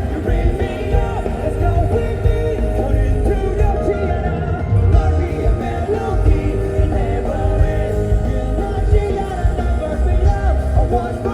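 Live rock band playing a song at full volume, with heavy drums and bass underneath wavering guitar or vocal lines.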